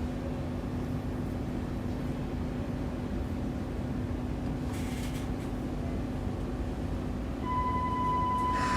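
Cabin of a Hiroden 3100-series tram, a steady low hum with one constant low tone. About seven and a half seconds in, a steady high electronic beep starts and keeps sounding.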